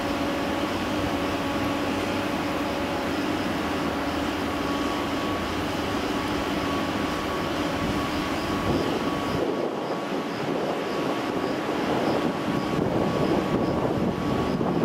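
Trenitalia Hitachi Blues regional multiple unit approaching slowly, its electric traction equipment giving a steady humming whine made of several held tones over running noise. In the second half the sound turns rougher and a little louder as the train comes closer.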